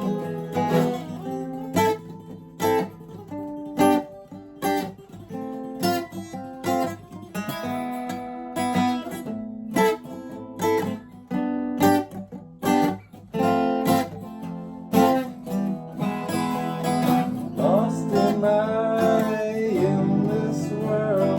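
Acoustic guitar strummed in a steady rhythm, with sharp accented chord strokes about once a second.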